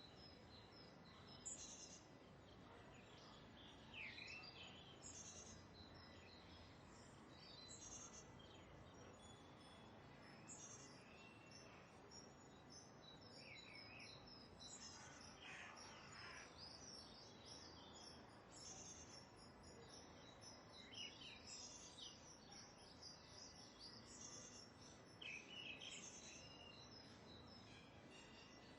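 Faint birdsong: short high chirps repeated every couple of seconds, with some falling calls, over a quiet outdoor noise bed. From about a third of the way in, a faint, very high, evenly pulsed sound joins in.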